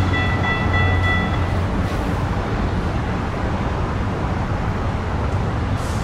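Distant approaching commuter train heard as a steady low rumble. A high ringing chord of several tones runs over it and cuts off about a second and a half in.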